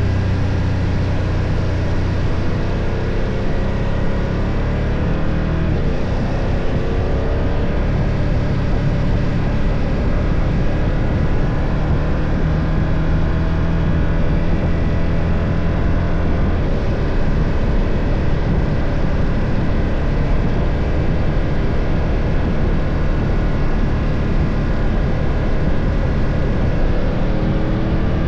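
BMW F 800 GS parallel-twin engine running while the motorcycle is ridden, its pitch climbing a few times as it accelerates, over steady wind and road noise.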